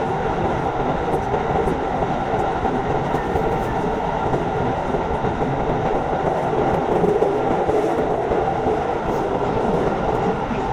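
Hankyu Kyoto Line electric train running between stations, heard from inside the car: a steady running noise of wheels on rail, with faint light ticks.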